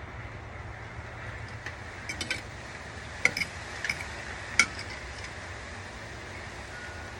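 Cutlery clinking against a dish while eating, a run of light, sharp clinks between about two and five seconds in, over a steady background noise.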